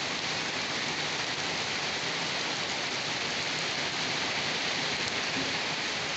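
Steady heavy rain falling and pattering on surfaces, an even hiss with no letup.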